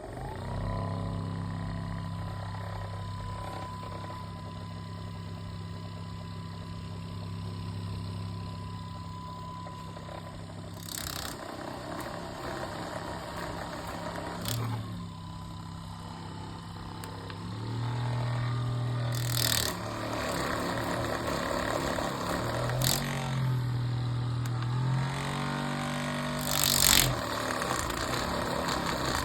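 Ekrin B37S massage gun motor running with a steady low hum, its pitch dropping and rising several times, with a few short clicks in between.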